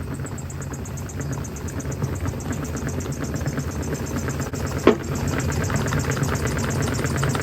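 LG washing machine running with a brick knocking around inside the drum: a steady low hum under a fast, even rattle, with one sharp bang about five seconds in.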